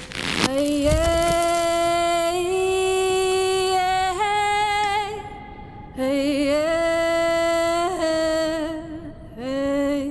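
Wordless female voice singing long held notes that step upward in pitch, in three phrases with short breaths between them. A sharp low thump sounds at the very start.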